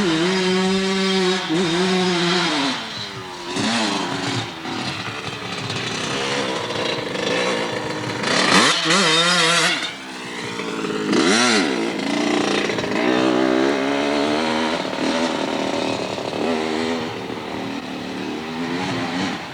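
Dirt bike engine running, its pitch climbing and falling again and again as it revs up and down.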